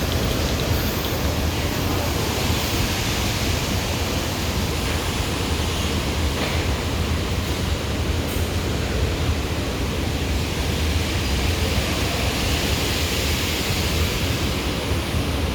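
Steady rushing noise of heavy rain, with a low rumble underneath.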